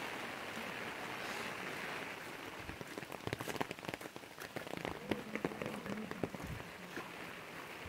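Heavy monsoon rain falling steadily. From about two and a half seconds in, many sharp, close drop impacts sound over the hiss.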